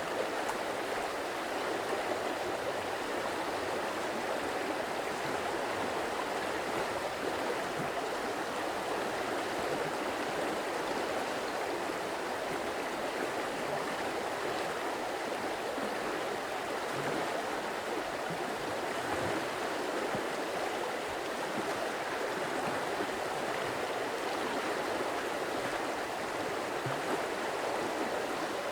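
Water of a stream flowing steadily, a constant even rush with no change over the whole stretch.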